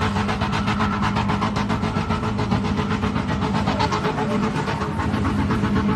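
Burnout car's engine held at high revs, pulsing rapidly and evenly at about ten beats a second.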